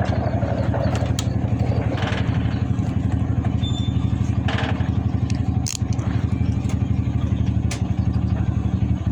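A vehicle's engine running steadily with a rapid even pulse, with a few short knocks and rattles on top.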